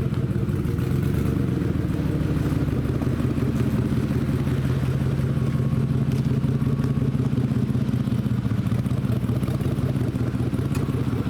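A vehicle engine running steadily with a low, even hum while the vehicle is driven.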